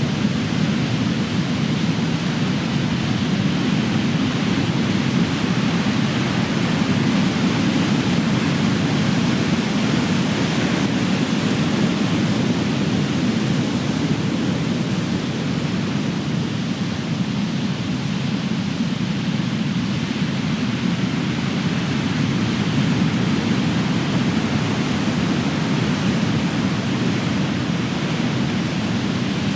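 Big ocean waves crashing on the shore, a continuous deep surf roar that swells and eases slowly.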